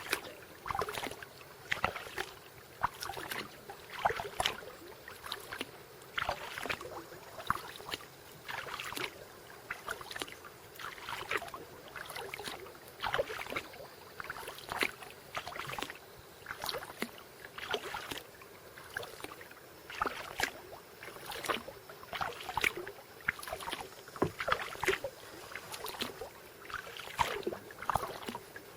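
Kayak paddle blades dipping and pulling through lake water in a steady rhythm, about one splashy stroke a second.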